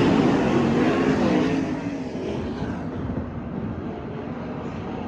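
Racing engine passing by, loud at first and fading away over about two seconds, leaving a steady distant engine rumble.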